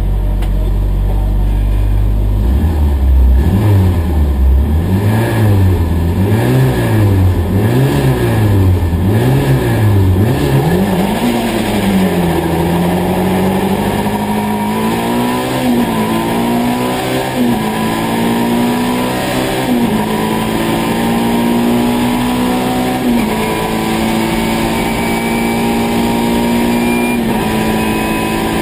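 Peugeot 205 Group A rally car's 1.3-litre four-cylinder engine, heard from inside the stripped cabin. It idles, then is revved up and down in a steady rhythm about every second and a half. About ten seconds in it launches and accelerates hard, its note climbing and dropping at each of several upshifts.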